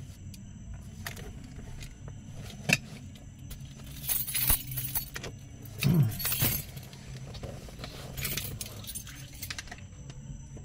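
A bunch of keys jangling in a few short bursts, with a sharp click a little under three seconds in, over a low steady hum.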